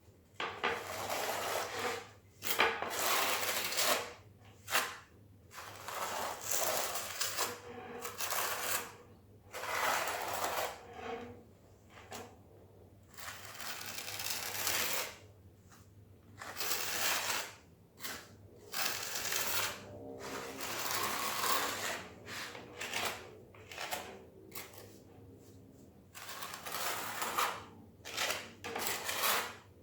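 Hand scraper spreading and combing tile adhesive, in a run of uneven scraping strokes with short pauses between them.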